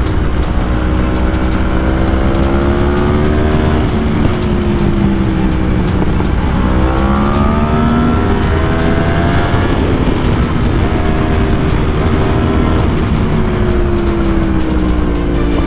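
Yamaha R1 sport bike's inline-four engine accelerating hard, its pitch climbing and then dropping at each gear change, several times over. A steady low wind rumble runs under it.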